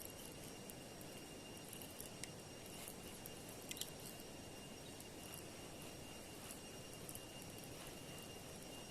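Faint steady rush of river water with a thin, steady high-pitched tone over it, such as an insect's drone, and a few small sharp clicks.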